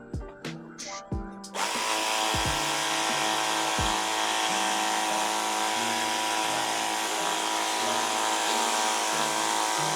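Background music with a beat. About a second and a half in, a water jet gun starts up, and its pump motor runs steadily under the hiss of soapy spray from the soap bottle attachment.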